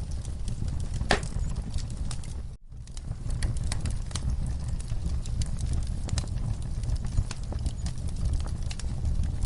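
Wood fire crackling in a fireplace: irregular sharp pops and snaps over a steady low rumble of burning, with one louder pop about a second in. The sound drops out for a split second about two and a half seconds in.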